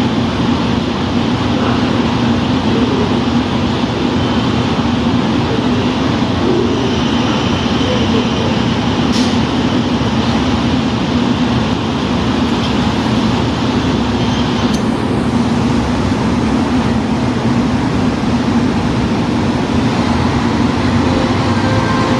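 KiHa 185 diesel railcar engine running at a steady idle, with two short sharp clicks, one about nine seconds in and one about fifteen seconds in.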